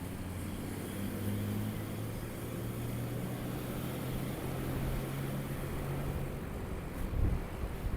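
Motorcycle engine running at a steady pitch under way, with road and wind noise. The engine tone eases off about six seconds in, and a brief low thump follows near the end.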